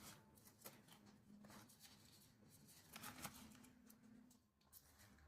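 Near silence: room tone with a few faint clicks and soft rustles, slightly louder about three seconds in.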